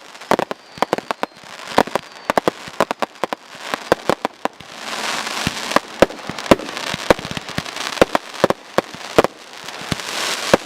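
Fireworks finale barrage: a rapid, dense string of sharp bangs from aerial shells, several a second, with a rising crackling hiss building from about halfway through.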